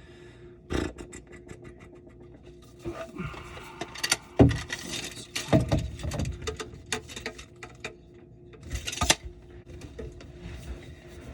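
Irregular knocks, clicks, rattles and scraping of tools and parts being handled during hand work, with the loudest knocks about one, four and a half, and nine seconds in. A faint steady hum runs underneath.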